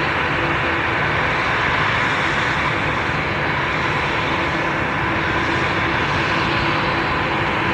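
Jet airliner engines running, a steady loud rush of noise with a faint steady whine through it.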